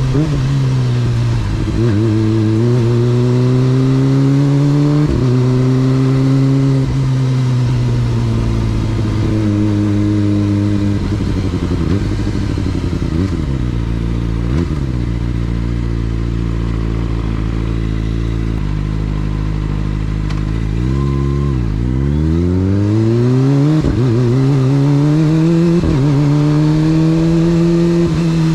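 Motorcycle engine on the move, its pitch climbing under throttle and dropping at each gear change or roll-off, over and over. About twenty seconds in it falls low, then rises steadily again.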